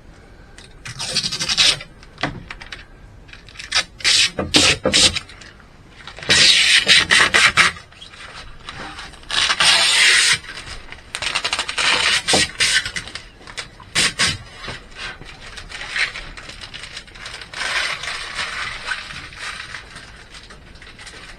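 Scraping and rubbing on a hard surface in irregular bursts of a second or two, with a few sharp knocks in between.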